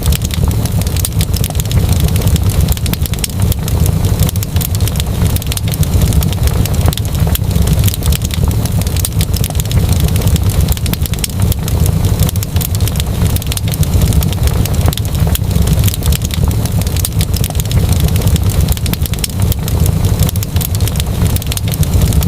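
Wood fire crackling, with many small pops and snaps over a constant low rumble.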